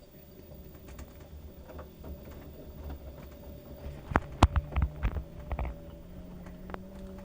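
LG washing machine running a load of wet towels: the motor hum rises in pitch as the drum speeds up, over a low rumble, with a cluster of loud thumps from the wet towels in the drum about four to five seconds in.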